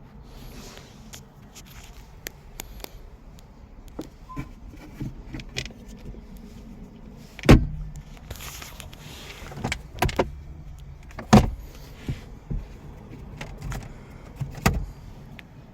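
Scattered clicks and knocks with four heavy thumps, the sound of someone handling a car's body and interior.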